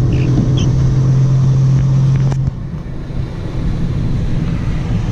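Car cabin noise while driving: a steady low engine and road drone with a hum that stops with a click about halfway through, after which the drone is a little quieter.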